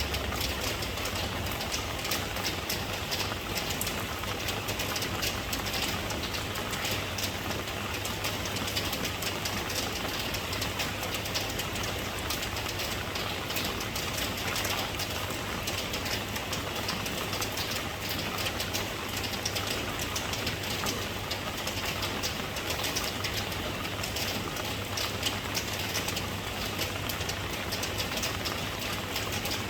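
Steady rain falling: an even hiss dotted with many small, crisp drop ticks, unchanging throughout.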